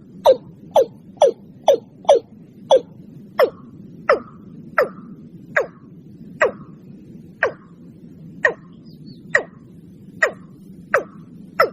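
Watercock call played as a bird-lure recording: a long series of short, sharp notes, each dropping quickly in pitch. They come about two a second at first, slow to about one a second by the middle, and quicken slightly near the end. A faint low hum runs underneath.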